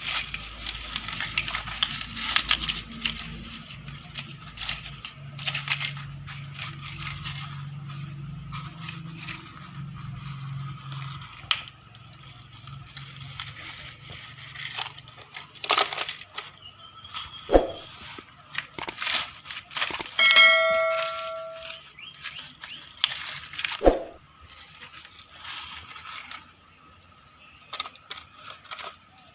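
Excavator at work lifting a car: a low engine hum in the first ten seconds or so, with crackling, scraping and clanks of metal throughout. Two sharp knocks, about 17 and 24 seconds in, and a bell-like metallic ring lasting about a second and a half, about 20 seconds in.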